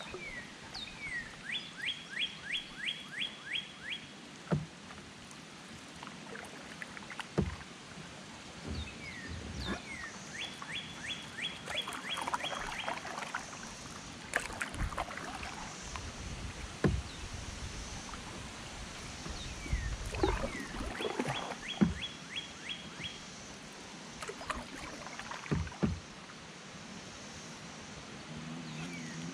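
A bird singing the same song three times, a couple of sliding notes then a quick run of about nine clear notes, over the dips of a canoe paddle and scattered hollow knocks on the canoe's hull.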